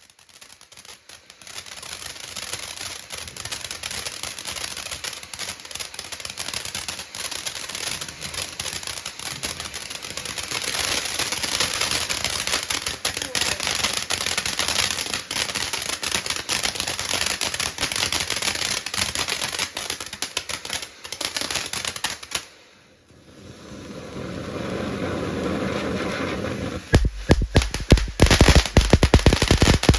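New Year's fireworks and firecrackers going off in a long, rapid crackling rattle of pops. It dips briefly, then near the end gives way to a louder, denser string of bangs with deep thumps.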